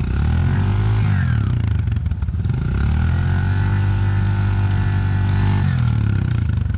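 Dirt bike engine revving in long surges, its pitch climbing and then falling back, as the rider tries to drive the bike on through the river crossing; the chain seems to have come off.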